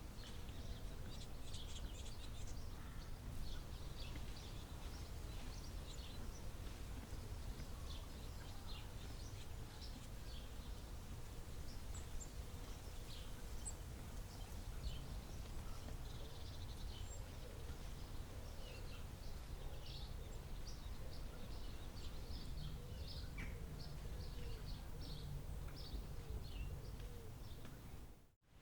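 Forest birds chirping: many short, high chirps and calls from several birds, over a steady low rumble of background noise. The sound cuts out for a moment near the end.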